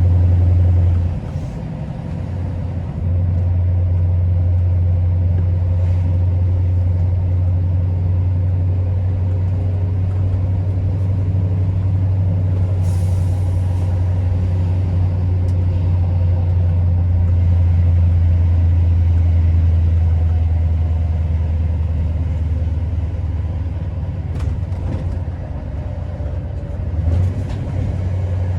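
Scania R650's V8 diesel truck engine running steadily under way, with a low, even drone that dips for a couple of seconds about a second in. A short hiss of air comes about halfway through.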